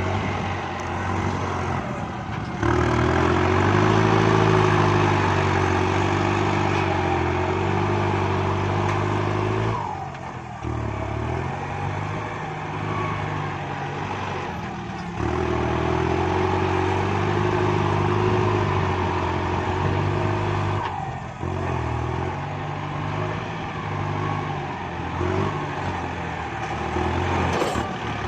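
Kubota MU5702 tractor's diesel engine working under load while pushing soil, its sound swelling louder for several long stretches, a few seconds in and again from about the middle, with lighter running in between.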